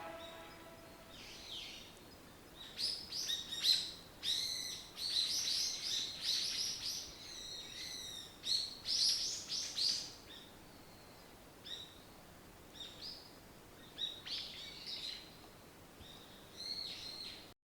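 Birds calling: a busy run of short, high chirping calls in the first half, thinning to scattered single calls later.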